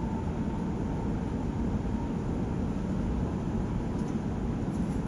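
Class 701 'Arterio' electric multiple unit heard from inside the passenger saloon while running along the line, a steady low rumble with hiss and no sudden events.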